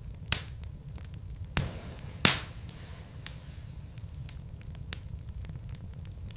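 Wood fire crackling in a fireplace: small scattered crackles over a steady low rumble, with three louder pops, the loudest a little over two seconds in.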